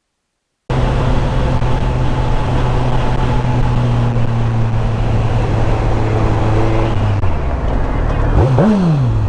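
Sport motorcycle's inline-four engine running at steady revs over wind rush, cutting in abruptly after a moment of silence. The engine note drops about seven seconds in, then revs up sharply and falls back near the end.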